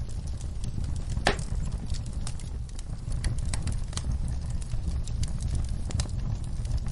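Wood fire crackling and popping, with irregular sharp snaps over a steady low rumble and one louder pop about a second in.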